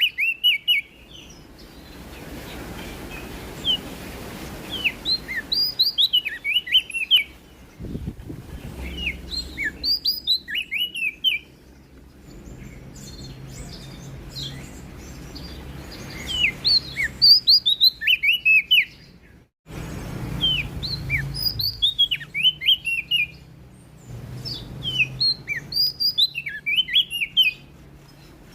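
Prenjak daun, a small leaf warbler, singing: repeated rapid phrases of high, sweeping chirps, each lasting a second or two, with short pauses between them, over a faint low rumble.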